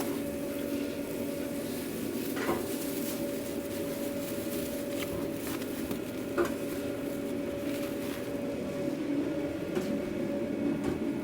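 Food truck kitchen: a steady mechanical hum, with a few sharp metal clinks of cooking utensils, the clearest about two and a half and six and a half seconds in.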